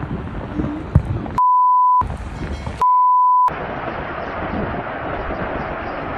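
Two censor bleeps, each a steady high beep of about half a second with the original sound cut out beneath it, blanking speech in an outdoor recording with wind noise and a sharp knock about a second in. From about three and a half seconds on there is a steady rushing noise.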